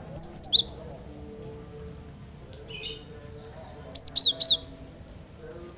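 Cinereous tit (gelatik batu) calling. It gives a quick burst of four sharp chirps that slide downward in pitch, a short buzzy note about midway, and three more sliding chirps about four seconds in.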